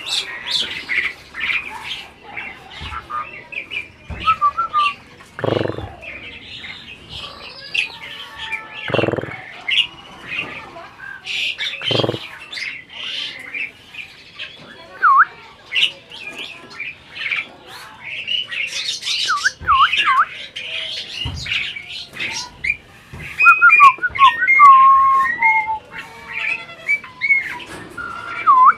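Asian pied starling (jalak suren) calling continuously: a varied, chattering run of chirps, harsh squawks and short whistles, with a string of clearer gliding whistled notes in the later part.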